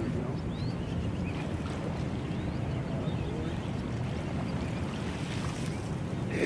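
Steady wind rumbling on the microphone outdoors, with a few faint high chirps above it.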